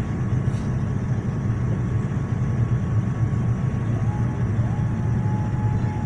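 Boeing 787 cabin noise during the approach: a steady low rumble of engines and airflow. About four seconds in, a thin steady whine starts and slides up in pitch into a held tone.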